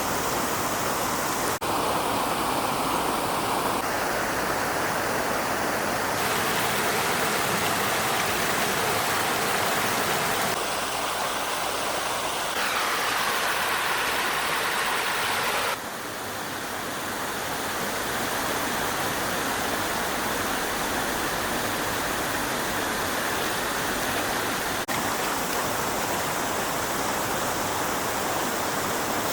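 Water rushing and splashing in a stream, a steady noise whose tone shifts suddenly every few seconds.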